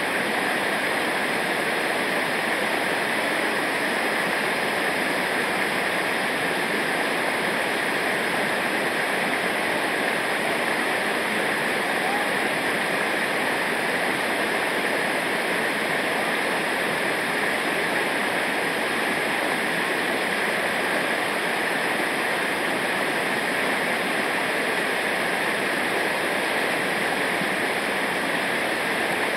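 Rushing river water: a steady, unbroken rush with no breaks or changes.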